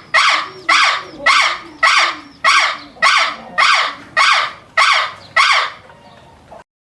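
A bird giving about ten loud, evenly spaced calls, roughly two a second, the last ones fading; the sound cuts off abruptly near the end.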